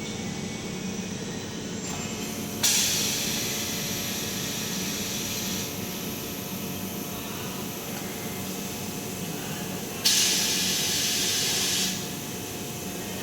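Glass CNC cutting machine running with a steady hum, with two sudden bursts of compressed-air hiss: one a few seconds in that fades over about three seconds, and a louder one of about two seconds near the end.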